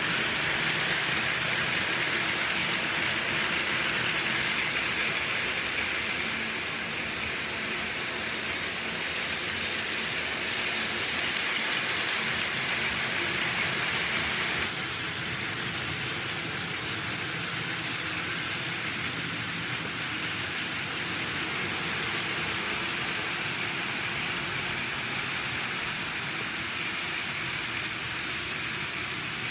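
Battery-powered Plarail toy train running on plastic track: a steady whirring rattle of its small motor, gears and wheels. It drops slightly in level about halfway through.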